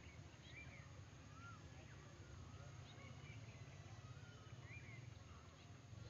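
Quiet riverside ambience: faint bird chirps, short and rising-then-falling, now and then over a low steady rumble.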